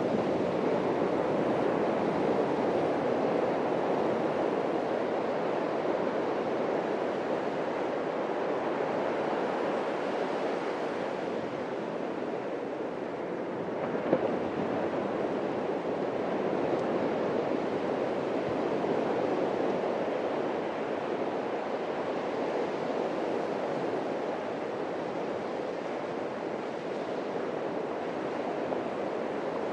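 Atlantic Ocean surf washing onto a beach: a steady rushing of breaking waves that swells and eases slowly, with one brief sharper peak about halfway through.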